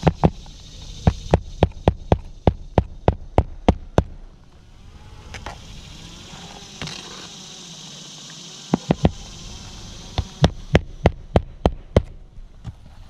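Hammer driving roofing nails through a replacement asphalt shingle, with two runs of quick, evenly spaced blows about three a second: roughly ten near the start, then about a dozen after a pause of a few seconds.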